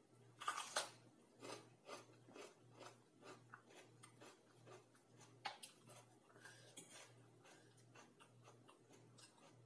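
Biting into a raw green bell pepper with two loud crunches about half a second in, then crunchy chewing at about two bites a second, fading later; a spoon clicks sharply against a bowl about five and a half seconds in.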